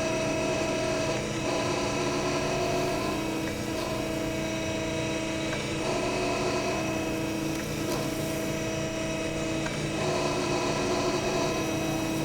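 Harig EZ-Surf surface grinder running with its spindle turning and hydraulic table reciprocating: a steady, quiet machine hum with several steady tones, shifting slightly about every two seconds as the table goes back and forth.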